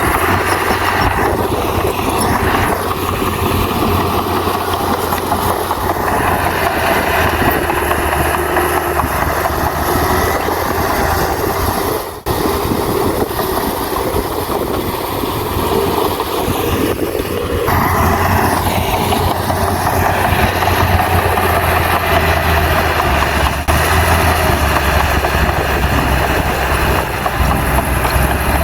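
Heavy diesel earthmoving machine engine running steadily with a deep hum, with a brief sudden drop about twelve seconds in.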